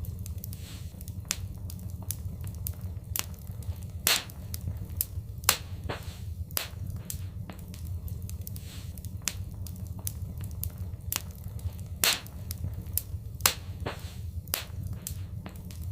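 Fireplace fire crackling, with irregular sharp pops over a steady low rumble. A few louder pops stand out, about four, five and a half, twelve and thirteen and a half seconds in.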